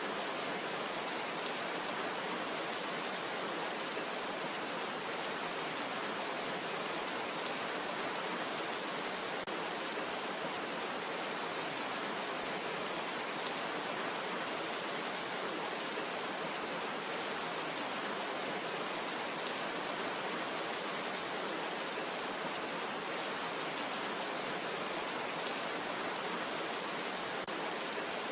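Steady heavy rain falling, an even hiss with fine drop patter throughout.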